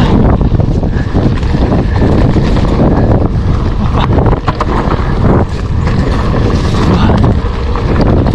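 Heavy wind buffeting on the microphone of a mountain bike riding downhill, with the bike clattering and knocking over rough trail.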